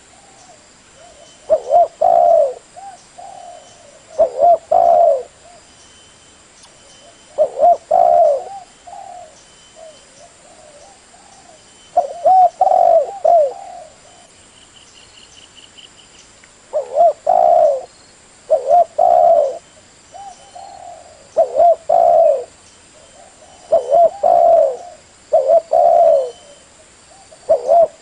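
Spotted dove cooing: short phrases of a few low coos, repeated every two to five seconds.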